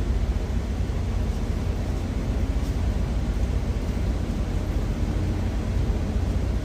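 Truck engine idling: a steady low rumble heard inside the cab.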